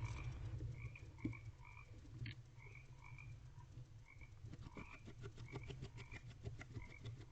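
A faint frog chorus: short calls repeated every half second or so over a steady low hum. From about halfway through come quick soft scratching ticks, from the barn owl scratching and preening in the nest box.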